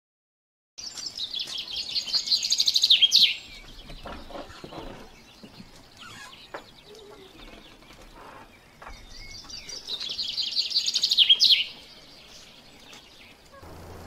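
A songbird singing, twice: each phrase is a rapid high trill of about two and a half seconds that grows louder and ends in a quick flourish, with faint softer chirps between the two.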